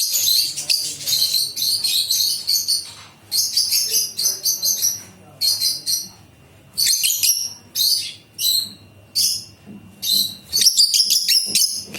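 High-pitched chirping and chattering from pet parrots, a pineapple conure and lutino lovebird pair, in quick bouts of rapid chirps with short pauses between.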